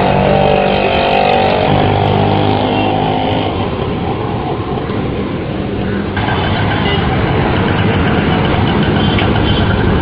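Auto-rickshaw engine running steadily, its sound shifting about six seconds in.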